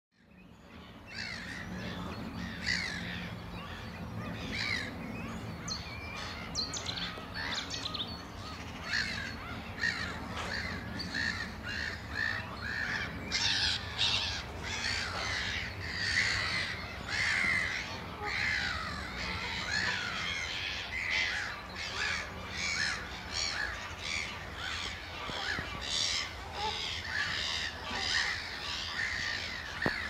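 Birds calling: a dense, continuous run of short, harsh calls from several birds, over a steady low hum.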